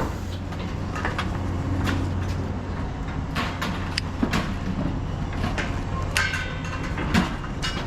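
A vehicle engine idling with a steady low hum, with scattered sharp clanks and clicks at irregular moments.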